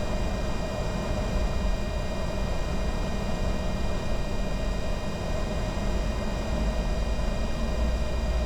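Steady in-flight cockpit noise of a Bombardier Challenger 605 business jet on descent: a constant rush of airflow and low rumble, with several faint steady high whines.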